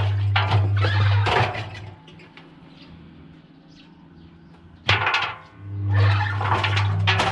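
Washing machine drum turning with balloons and cubes tumbling and knocking inside over the motor's low hum. It stops about two seconds in, then after a sharp knock about five seconds in the drum starts turning again, as in a wash cycle's back-and-forth tumbling.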